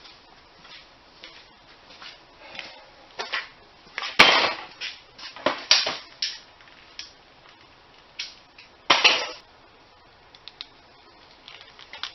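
Metal hand tools clinking and clattering against each other, with a few sharp knocks: the loudest about four seconds in, another just before six seconds and a short clatter about nine seconds in.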